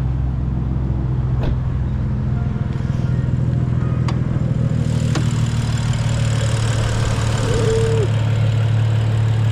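Straight-piped BMW E92 335i's N55 turbocharged straight-six idling steadily after a fresh ECU tune. A few light clicks sound over it, and a hiss comes in about halfway through.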